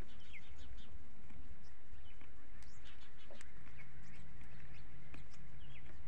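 Small birds chirping in short, scattered calls over a steady low rumble. A faint steady hum joins about three and a half seconds in.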